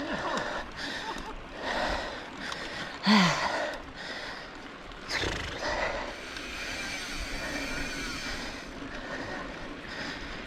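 A mountain biker breathing hard while climbing: loud exhales every one to two seconds, one of them a short voiced groan about three seconds in.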